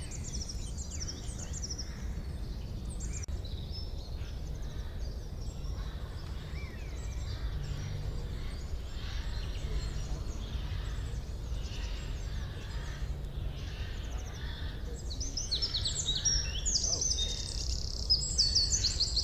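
Songbirds singing and calling in a forest, many overlapping high chirps and fast trills that grow louder near the end, over a steady low rumble.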